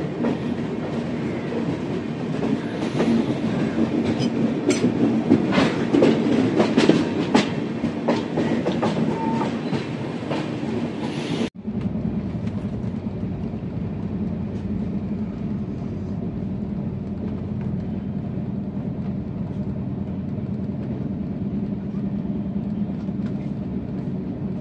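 Passenger express train running on the rails, its wheels clacking over rail joints with many sharp clicks in the first half. An abrupt cut about halfway through is followed by a steadier, duller running rumble.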